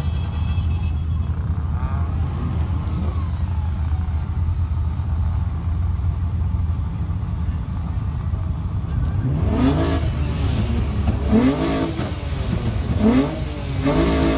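Car engine idling with a steady low rumble, then revved in about four sharp blips near the end, each rising and falling in pitch.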